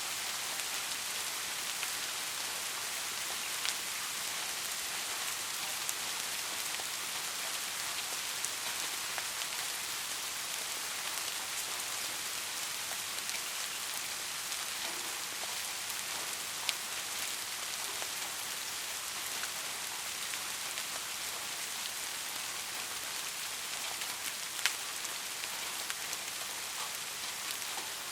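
Steady rain falling on a surface, an even hiss with individual drops ticking now and then; a few louder drops stand out, one about seventeen seconds in and another near twenty-five seconds.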